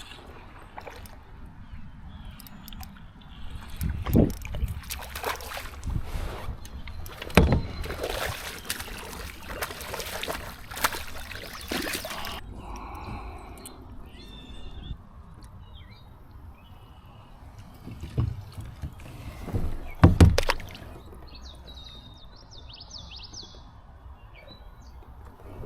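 Water sloshing and splashing around a kayak, with a few hard knocks against the hull. Birds chirp in the second half.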